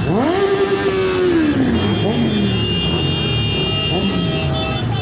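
A motorcycle engine revved: its pitch climbs sharply, holds for about a second, then falls back, over the steady running of other motorcycles.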